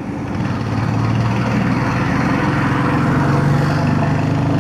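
Royal Enfield Hunter 350's single-cylinder engine running under acceleration to overtake, with wind and road noise. It gets louder about half a second in and its note climbs slightly towards the end.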